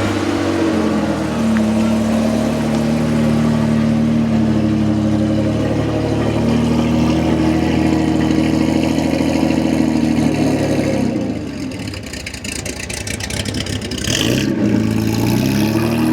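A car engine running steadily; about eleven seconds in its pitch falls away, then rises again near the end as it revs up.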